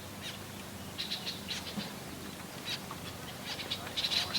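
Small birds chirping: short, high calls in little clusters about a second in, near three seconds and again near the end.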